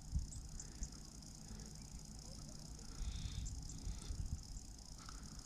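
Steady high-pitched chorus of insects, with an uneven low rumble underneath that swells briefly about three seconds in.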